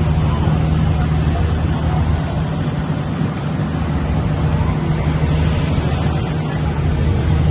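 A yacht's engine running with a steady low hum, under a continuous rushing noise.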